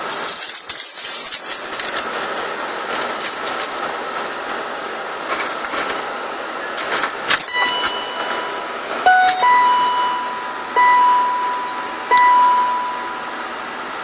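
Car keys rattling with small clicks, then the car's electronic warning beeper sounding: a short beep, a quick two-note chirp, and three steady beeps of about a second each, as the engine is started without the immobiliser code being entered.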